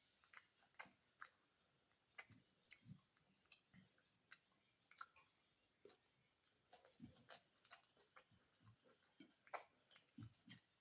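Close-miked chewing of beef biryani: soft wet mouth clicks and crackles, irregular and a few to the second, with low soft thuds now and then. It is faint.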